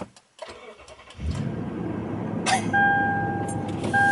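A vehicle engine starts about a second in and runs at a steady idle. From about halfway, a dashboard warning chime sounds in long, evenly repeating beeps over the engine.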